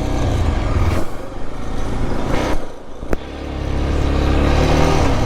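Yezdi Adventure's single-cylinder engine pulling while the bike is ridden, with wind noise. About three seconds in, the engine sound drops briefly and there is a sharp click. Then it pulls again, rising slightly in pitch.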